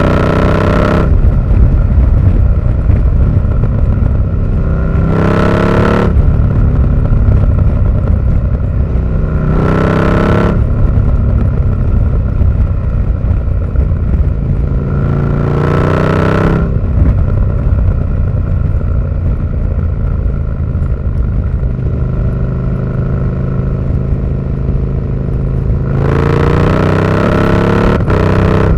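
KTM 1290 Super Duke R's 1301 cc V-twin through an Austin Racing V3 200mm aftermarket exhaust, idling and blipped five times. Each rev rises quickly and drops back to idle, and the last one is held for about two seconds near the end.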